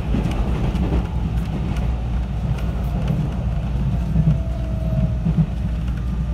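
JR 313 series electric train running, heard inside the car: a steady low rumble of wheels and motors, with a faint motor whine sliding slightly in pitch about four to five seconds in.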